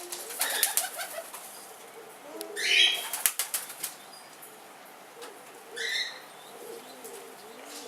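Caged birds: wings flapping and fluttering near the start and again about three seconds in, over repeated low cooing calls, with a louder higher call about two and a half seconds in and another near six seconds.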